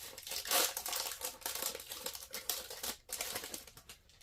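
Crinkling and rustling of a trading card pack wrapper as it is opened and handled, in uneven bursts that die away near the end.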